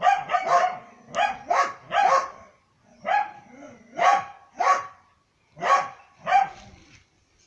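A dog barking repeatedly: about ten sharp barks, mostly in pairs, with short pauses between them.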